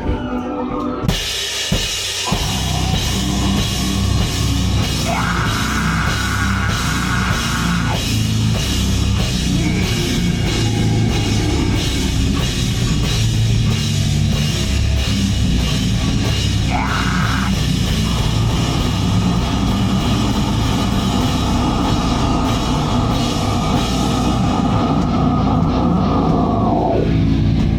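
A live heavy band plays loud noise on drum kit, cymbals and amplified instruments as a sound check, so the engineer can EQ the band. It kicks in about a second in and cuts off just before the end.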